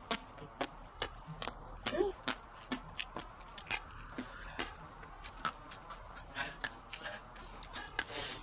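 Close-up chewing of passion fruit pulp, the crunchy seeds giving sharp, irregular clicks a few times a second.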